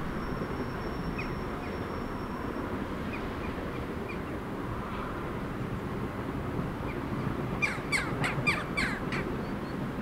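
A bird's harsh calls: a quick run of about seven in a second and a half near the end, over a steady low rumble of village background noise.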